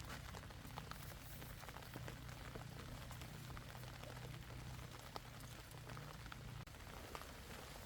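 Steady rain falling, with scattered drops tapping. A low steady rumble underneath stops about two-thirds of the way through.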